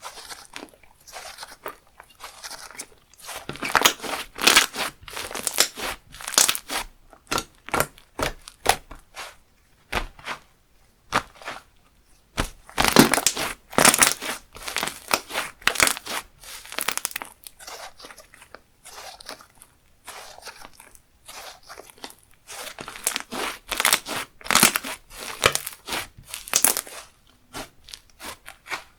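Slime being pressed, folded and squeezed by hand, giving irregular crackling, crunchy popping sounds that come in three louder stretches.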